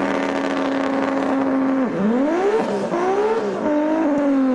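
A car engine held at steady revs, then dropping and rising in pitch several times as it is revved.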